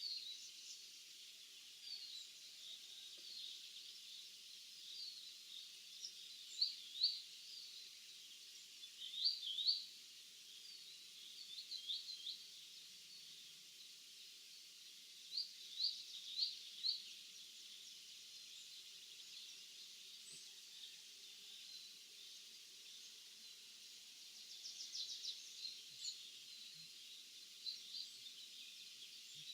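Birds chirping in a field at dawn: short, sharp high chirps, often two or three in quick succession, repeated every few seconds over a steady high hiss.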